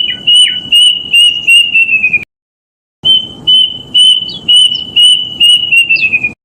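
Plaintive cuckoo (kedasih) singing: two runs of high whistled notes, about three a second. Each run quickens at the end as the notes slide lower in pitch, and there is a short break between the runs.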